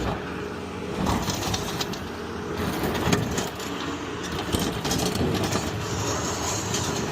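Irregular knocks and scraping of sheet-metal scrap being handled, over a vehicle engine running steadily.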